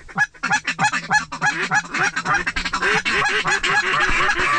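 Duck calls blown by hunters: a fast, steady run of short quacking notes, several a second and overlapping, a feeding chatter meant to draw in ducks that are circling.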